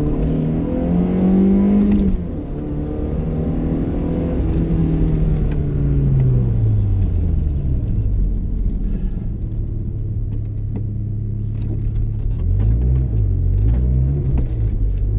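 BMW car's engine heard from inside the cabin: the revs climb, drop abruptly about two seconds in, then wind down to a low steady run, with two short rises and falls in revs near the end.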